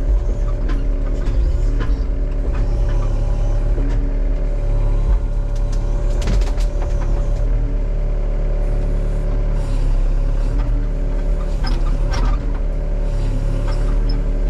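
Excavator's diesel engine running steadily under load as the machine pushes into a tree. Scattered sharp cracks and clanks come over it, the heaviest cluster about six seconds in and more near ten and twelve seconds.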